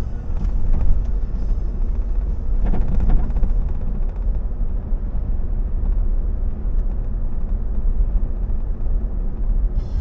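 Car being driven: a steady low rumble of engine and road noise, with a brief swell in the middle range about three seconds in.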